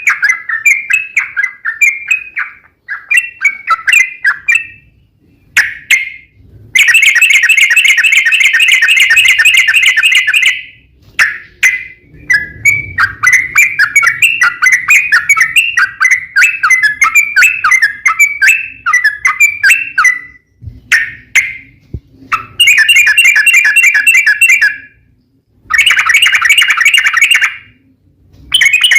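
Yellow-vented bulbul (trucuk) song: bubbly, chattering phrases, with three long, loud rapid trills, the 'ropel panjang' of a lure recording meant to set other trucuk singing.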